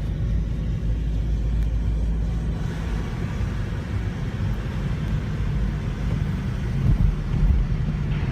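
Car driving along: a loud, steady low rumble of engine and road noise that starts suddenly just before and grows fuller about two and a half seconds in.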